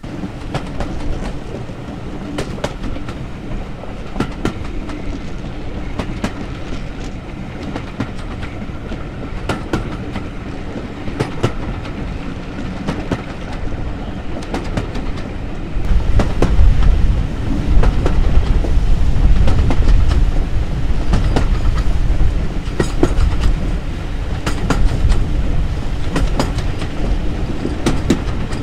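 Heritage railway train running along, its wheels clicking steadily over the rail joints under a continuous running noise. About halfway through it gets louder, with a heavier low rumble.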